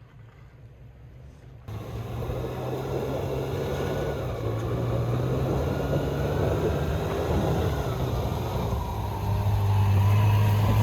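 Off-road 4x4 engine running under throttle, a steady low drone that cuts in abruptly about a second and a half in after faint wind noise and grows louder near the end.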